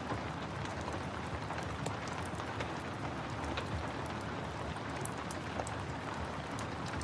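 Steady rain mixed with a crackling wood fire: an even hiss of rainfall with scattered sharp pops and ticks.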